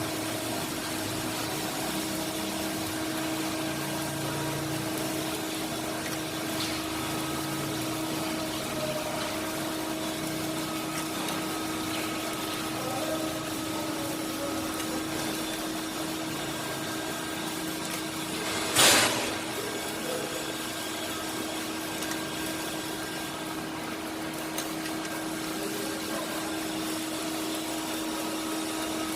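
A steady machine hum with one held tone, and a single short, loud burst of hissing noise about two-thirds of the way through.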